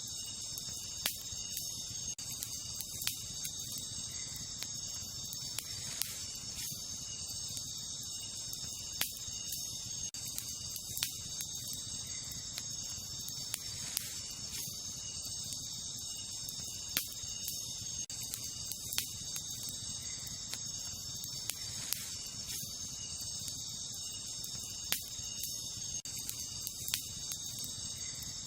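Wood campfire crackling, with sharp pops every second or two, over a steady high chorus of night insects.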